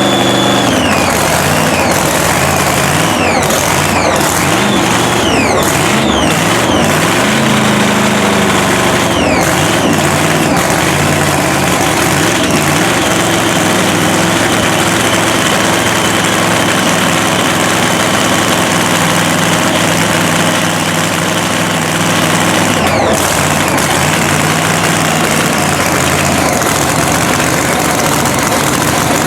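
Supercharged Hemi drag-racing engine running. Its pitch rises and falls with throttle blips over the first several seconds, then it settles into a steady idle.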